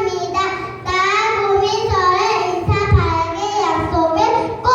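Young child singing a song, with long held notes.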